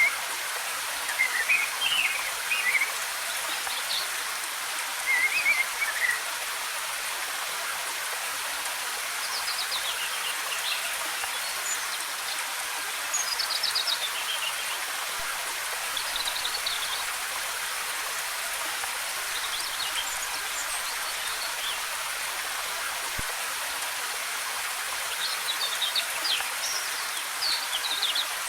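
Steady hiss of a waterfall's falling water, with forest birds chirping over it in short, quick phrases every few seconds.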